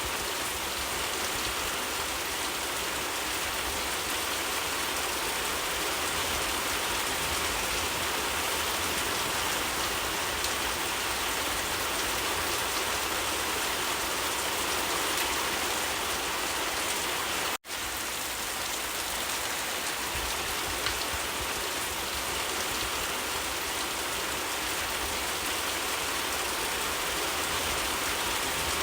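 Steady heavy rainfall, a continuous even hiss of drops, with a momentary break about two-thirds of the way through.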